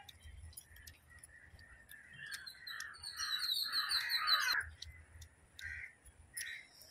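Birds calling: a run of repeated calls that grow louder up to about four and a half seconds in, with two more calls near the end, and a fast, high-pitched twittering from a second, smaller bird in the middle.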